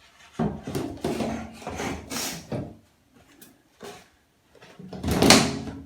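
Wooden skirting board being handled and worked into place: wood rubbing and knocking in several short bursts, with a louder scrape about five seconds in.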